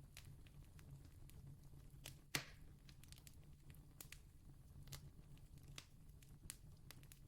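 Distant campfire crackling faintly: scattered sharp pops and snaps of burning wood, with one louder snap a little over two seconds in.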